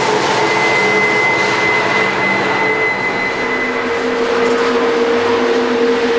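Train passing close by: a loud, steady rush of noise with a few held tones. A high tone fades out about halfway through, and a lower tone grows stronger in the second half.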